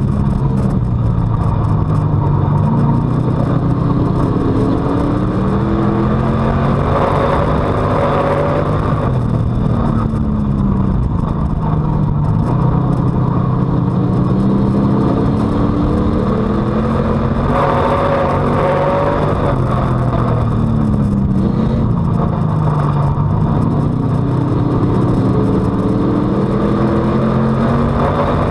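On-board sound of a WISSOTA street stock's V8 race engine on a dirt oval, pitch climbing as it accelerates and then dropping as it lifts off, in repeated cycles about three times.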